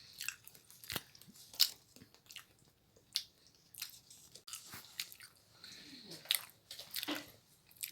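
Someone eating boondi sweets: scattered sharp chewing and lip-smacking clicks, about ten of them, separated by short quiet gaps.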